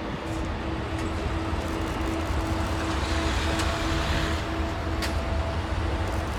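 Jet airliner engines, probably the Airbus A380's, giving a steady low rumble with a faint hum; the rumble swells a little in the middle.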